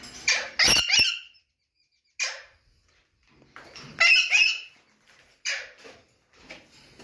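Alexandrine parakeets squawking: harsh, grating calls in short bursts, loudest near the start and again about four seconds in, with weaker squawks between.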